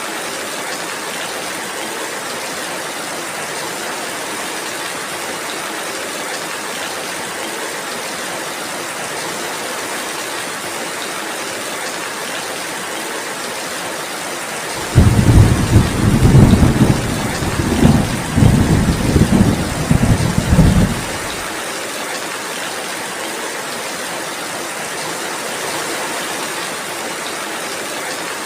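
Steady rainfall, with a loud rolling rumble of thunder that starts suddenly about halfway through and lasts about six seconds before the rain is left alone again.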